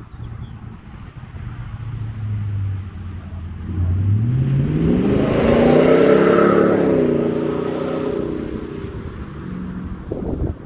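Car exhaust with a Flowmaster 50 muffler as the car drives past under acceleration. The engine note idles low, climbs sharply about four seconds in, is loudest around the middle, then fades as the car moves away.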